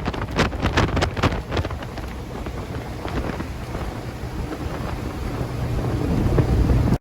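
Wind buffeting the microphone in an open Morgan Plus 4 on the move, over the low rumble of its engine and the road. The buffeting is heaviest in the first couple of seconds, eases, then builds again near the end.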